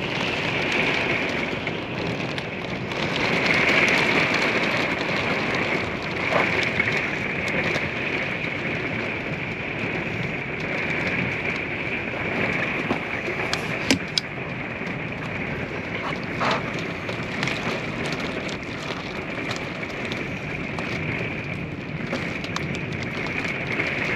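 Steady rain during a thunderstorm, heard from inside a small camper, with a few sharp ticks of drops or taps.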